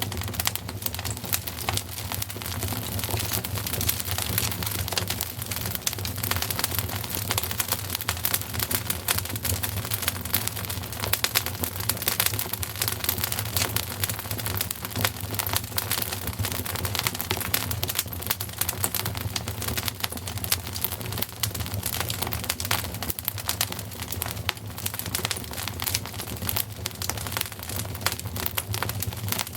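Wood fire crackling, with dense rapid pops and snaps over a steady low rumble.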